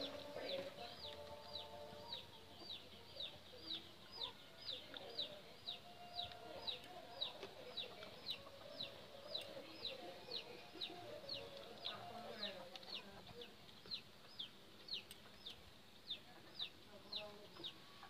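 A bird peeping steadily: a short, high, falling note repeated about twice a second.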